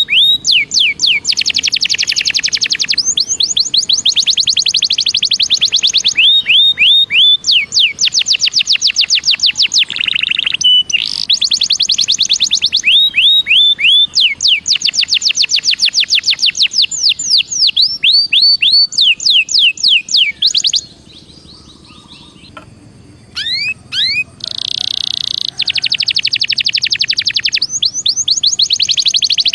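Belgian canary singing: rapid trills of repeated high, falling notes, one phrase running into the next, with a brief pause about two-thirds through before the song picks up again.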